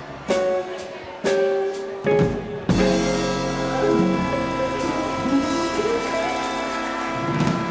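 Live swing band with tenor saxophone, guitar, bass and drums playing the end of a song: a few short accented stabs with drum hits, then a long held final chord.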